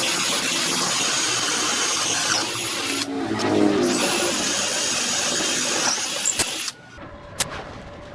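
A power tool running at full speed in two long stretches, with a brief break about three seconds in. It cuts off just before seven seconds, followed by a few sharp clicks.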